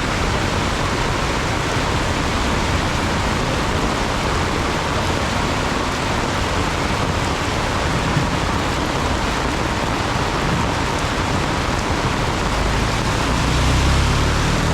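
Heavy rainstorm downpour, a loud, steady hiss of rain falling hard. Near the end a low rumble swells and fades as a vehicle passes.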